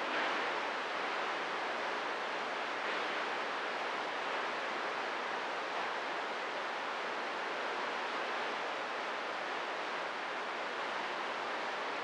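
Steady, even hiss of radio static from an open CB receiver between transmissions.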